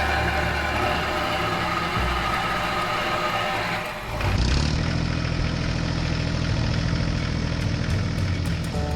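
Tractor engine running steadily. About four seconds in the sound changes abruptly to a steadier, louder low engine hum.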